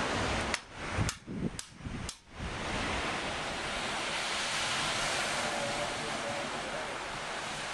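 Wind rushing over the camera's microphone, a steady noisy rush, broken in the first couple of seconds by a few sharp clicks and short dropouts.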